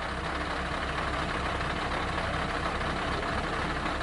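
Heavy truck's diesel engine running steadily: a low hum under an even rushing noise.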